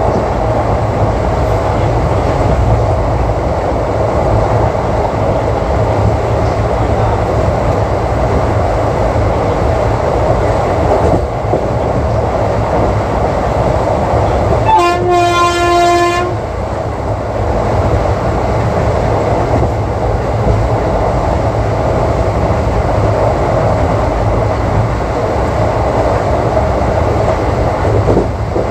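Steady running noise of an ICF passenger coach at speed on the track. About halfway through, one short horn blast from the WAP-4 electric locomotive lasts a second and a half.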